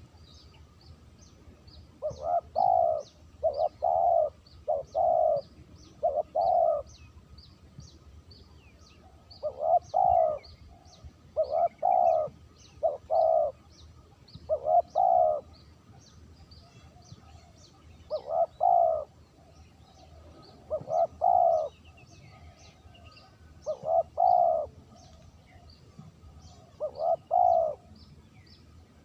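Spotted dove (terkukur) cooing: a run of four loud coos, then five more, then single coos spaced a few seconds apart, the clean call used as a lure to draw wild doves. A small bird chirps faintly and rapidly behind it.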